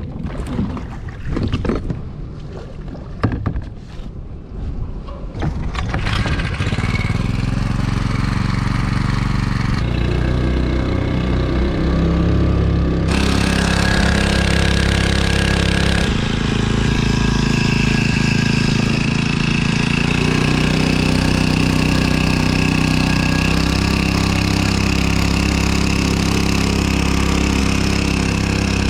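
Knocks and handling sounds for the first few seconds, then a small GDNTMU 4 hp four-stroke outboard motor running steadily, a lawnmower-type engine driving the boat. Its sound changes abruptly twice in the middle.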